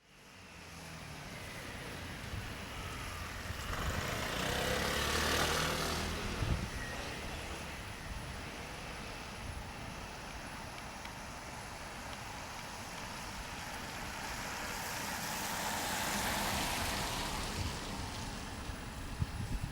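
Steady rain hiss, with vehicles passing on a wet road twice, each swelling up and fading over a few seconds, about five and about sixteen seconds in.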